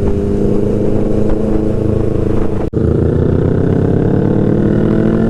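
Yamaha R3's parallel-twin engine with a loud aftermarket exhaust, running under way with its pitch slowly rising as it accelerates. The sound drops out for an instant about halfway through.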